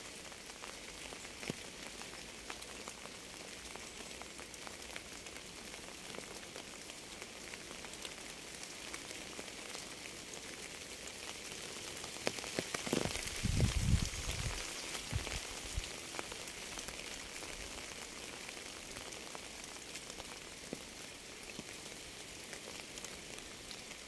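Steady rain falling on a surface, an even hiss with many small drops ticking through it. A short low rumble comes about halfway through.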